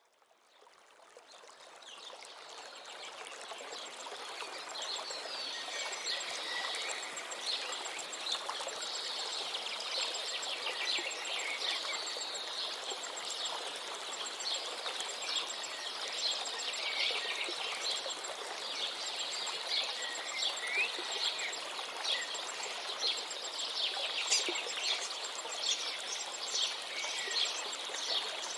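Many small birds chirping and singing over the steady rush of a river, fading in over the first few seconds.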